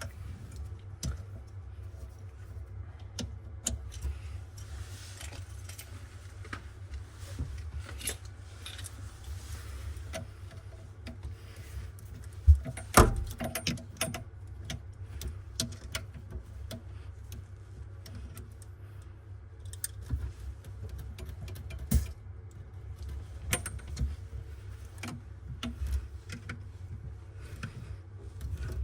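Metal tools and faucet parts clinking and clicking as they are handled during a kitchen faucet installation, over a steady low hum. A few louder knocks come about halfway through and again later.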